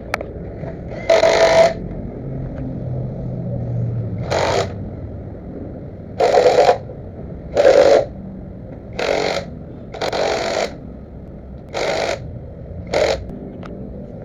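A power tool run in eight short bursts of about half a second each, at uneven gaps, over a steady low hum.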